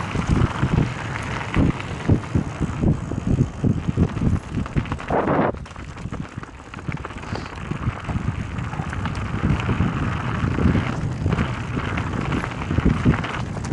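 Mountain bike riding over a rough trail: the bike rattling and knocking over bumps, with wind buffeting the microphone. About five seconds in there is a short rushing sound, then a quieter stretch of rolling before the rattling picks up again.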